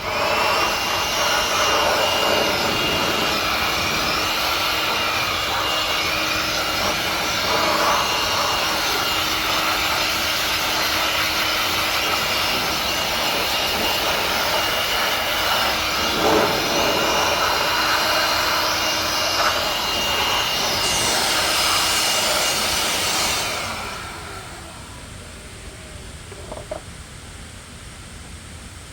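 A loud workshop power tool starts abruptly and runs steadily for about 23 seconds, with a rushing noise and a high steady whine, then winds down.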